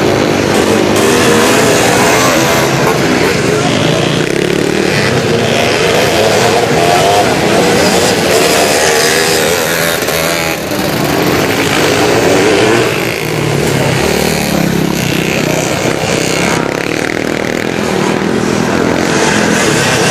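Several vintage motocross motorcycles racing on a dirt track, their engines revving up and down as they accelerate and shift.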